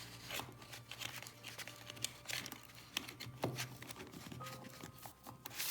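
Irregular clicks, taps and rustling of a plastic electrical switch board and its wires being handled, over a low steady hum.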